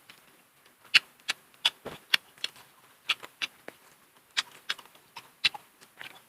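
Close-miked eating: a string of sharp, crisp clicks and crunches, two or three a second, as food is chewed.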